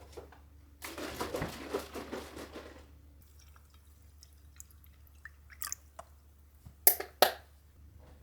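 Water running or being poured for about two seconds, followed by a few light clicks and two sharp knocks close together near the end.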